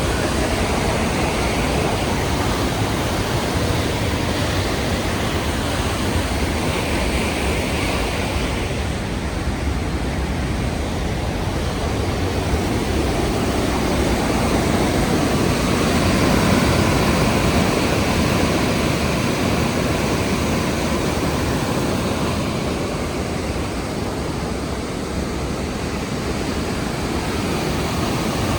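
The Rhine Falls roaring: a loud, steady rush of falling water with no breaks.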